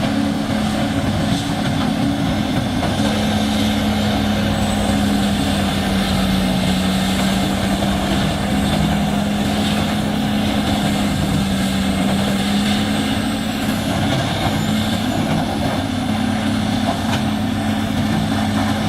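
Stihl MS 500i fuel-injected chainsaw engine running steadily, one unbroken drone.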